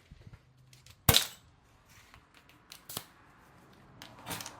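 A few sharp metallic clacks and knocks of tools being handled, the loudest about a second in, with a short cluster of clatter near the end.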